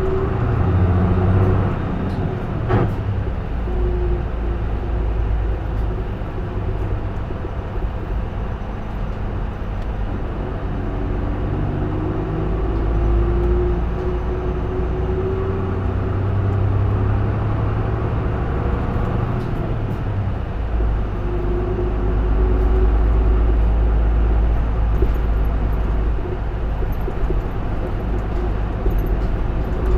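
Isuzu Erga (J-Bus PKG-LV234L2) city bus running on the road, heard from inside the cabin: a steady low diesel engine and drivetrain rumble, with the engine note climbing as the bus pulls away about twelve seconds in and again about twenty-one seconds in. A single click near the start.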